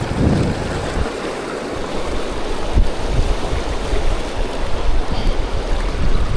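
Rushing river rapids hissing steadily, with strong wind gusting against the microphone in low rumbling buffets.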